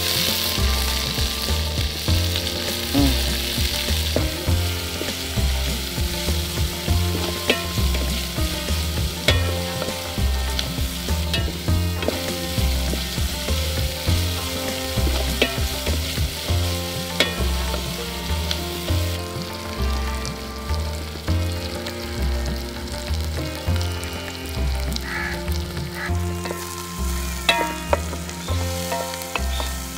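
Sliced onions and green chillies sizzling as they fry in an aluminium pot, stirred with a wooden spatula that now and then scrapes or knocks against the pot. A low steady beat runs underneath.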